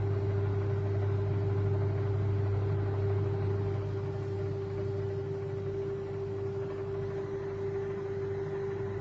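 Microwave oven running: a steady low hum with a steady higher-pitched drone over it.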